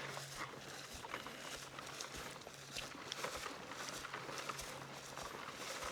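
Footsteps walking through grass and undergrowth, an uneven series of soft steps and rustles. A faint steady low hum runs underneath.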